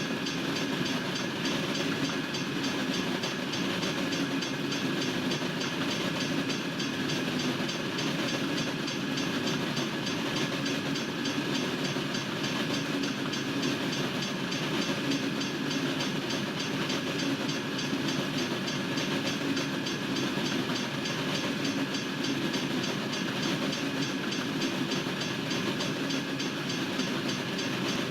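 Freight train cars rolling steadily past at a railroad crossing: a continuous rumble of wheels on rail that holds an even level throughout.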